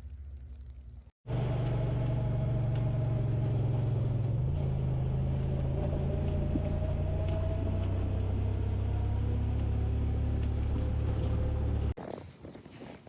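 Steady low rumble of a running vehicle, starting abruptly about a second in and cutting off suddenly near the end.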